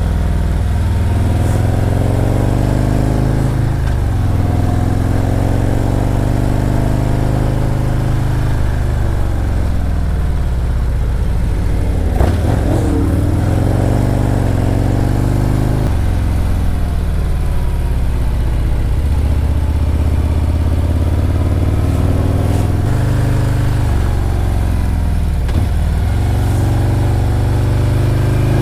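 Motorcycle engine heard from the rider's seat, its revs rising and falling over and over through a run of tight curves, with several gear changes. A short click sounds about twelve seconds in.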